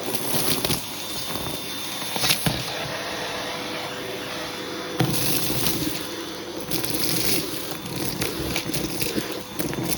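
Hoover vacuum cleaner running steadily, with a hose tool being worked over a shag rug to suck up carpet powder. Rushes of hiss come and go, with a sharp click about two seconds in and another about five seconds in.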